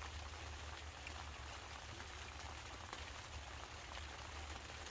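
Light rain falling on the fabric of a truck-bed tent: many faint, scattered drop taps over a soft steady hiss.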